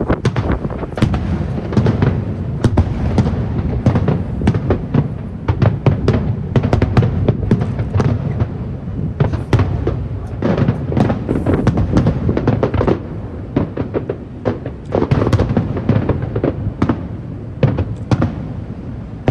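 Fireworks display in full barrage: rapid, overlapping bangs from shells bursting, over a continuous low rumble.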